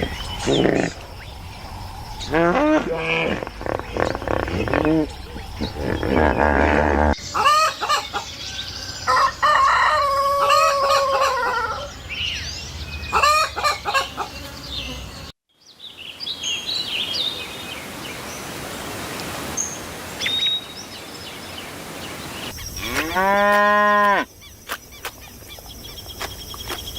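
Farm chickens clucking and a rooster crowing across a couple of joined clips, then small birds chirping over a quieter background, and one short cow moo near the end.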